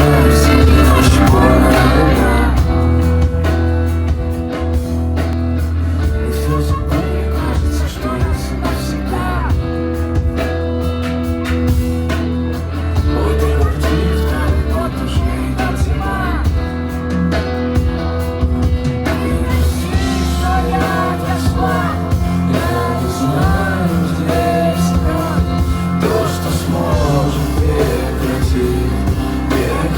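Live rock band playing a song, with guitars, a heavy steady bass and a lead singer's vocal line.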